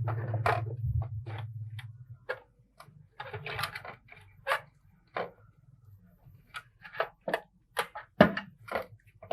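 Irregular sharp clicks and knocks of the lamp's small parts being handled and worked on, with a low hum during the first two seconds.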